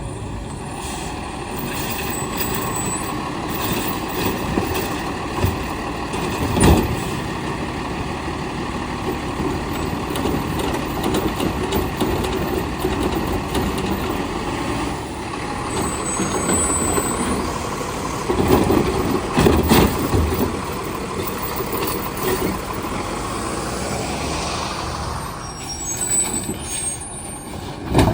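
Heil STARR automated side-loader garbage truck running at close range, its engine going steadily, with an air-brake hiss. Sharp bangs come about seven seconds in and again near the end, and a cluster of heavy knocks falls in the middle, typical of the automated arm lifting and dumping a recycling cart into the hopper.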